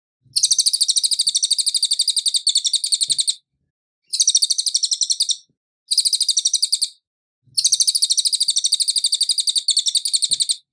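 Cililin songbird singing a rapid, high, evenly pulsed trill in four bouts separated by short pauses. The first and last bouts run about three seconds each.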